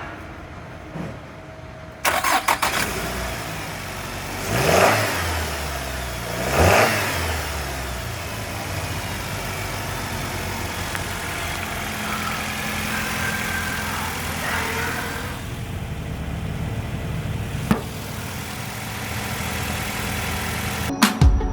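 2005 Nissan X-Trail's four-cylinder engine cranking and starting about two seconds in, revved up and back down twice, then idling steadily.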